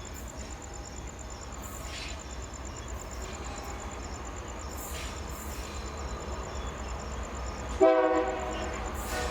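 Diesel freight locomotive approaching, its low engine rumble slowly growing louder, then a short blast of its air horn, several notes sounding together, near the end.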